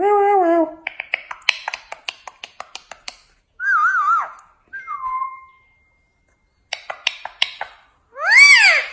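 A parrot calling: a falling call, then a quick run of sharp clicks, a warbling whistle and a falling whistle, and an arched rise-and-fall whistle near the end.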